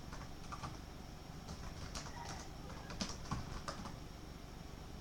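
Faint, irregular clicks of typing on a computer keyboard, a few taps a second with louder clacks around two and three seconds in.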